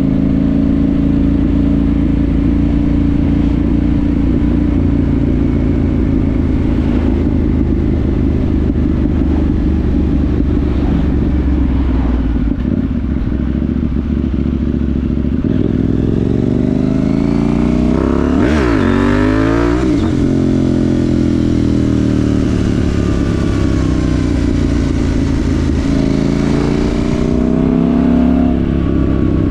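KTM 790 Duke parallel-twin engine through a Remus rear silencer with the catalytic converter deleted, running under way. The revs hold fairly steady for about half the time, then climb and drop back twice: once about two-thirds through and again near the end.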